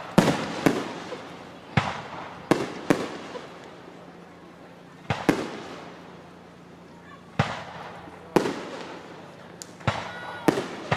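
Aerial fireworks shells bursting one after another: about a dozen sharp booms, some in quick pairs, each trailing off in a fading rumble.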